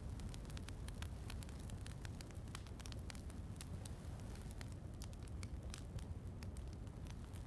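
Wood fire in a fireplace crackling, with frequent irregular sharp pops over a low steady rumble.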